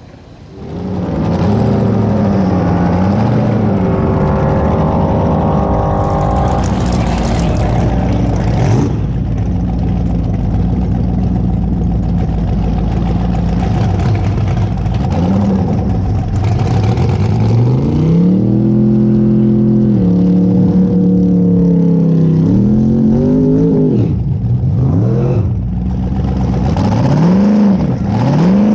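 Car engine running loud at the drag strip: held at a steady speed for long stretches, with short rises and falls in pitch as the throttle is blipped.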